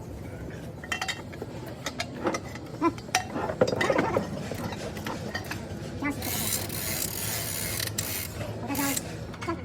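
Irregular metallic clicks and knocks from hand tools working on a generator engine, with a stretch of hiss about six seconds in.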